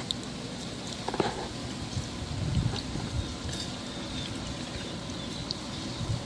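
Restaurant background noise: a steady hiss with a few light clicks and clinks, the sharpest about a second in, and some soft low thumps.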